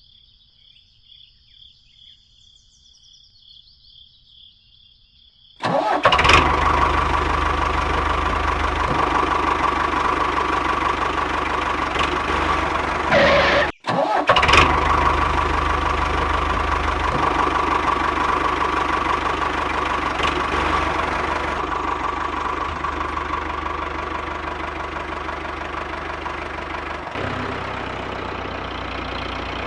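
A small motor on a homemade mini tractor starts suddenly about six seconds in and runs with a steady whine and gear noise. It cuts out for a moment about fourteen seconds in, then runs on, slightly quieter near the end.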